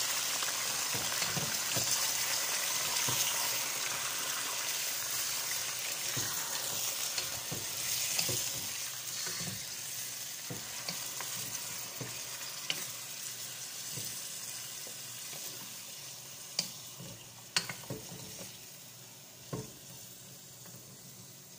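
Yogurt-marinated chicken pieces sizzling and frying in hot oil in a nonstick pot while being stirred with a wooden spatula. The sizzle fades gradually, and a few sharp knocks of the spatula against the pot come near the end.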